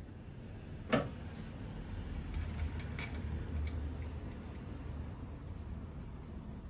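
Hand work on an engine timing chain assembly: a sharp knock about a second in and a smaller click about two seconds later, as parts and tools are handled, over a low steady hum.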